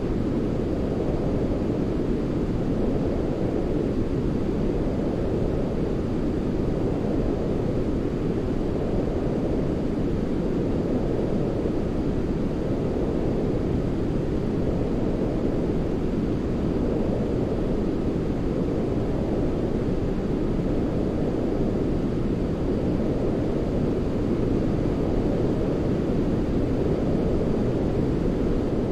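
Continuous deep white-noise track for baby sleep, weighted to the low end like brown noise: a steady, dull hiss with only slight slow swells.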